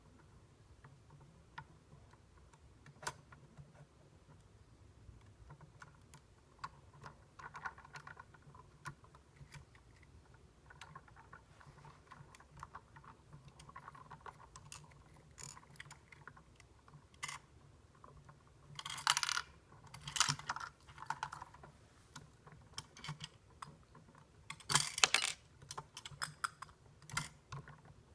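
Small plastic toy garbage truck model being handled, giving scattered light clicks and ticks. Two louder rattling bursts come in the second half.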